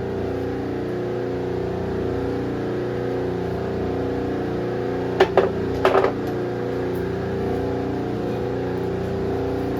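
Steady hum of the hydraulic ram's pump running as it presses on an aluminium wheel rim to bend it, with two brief clatters a little past halfway.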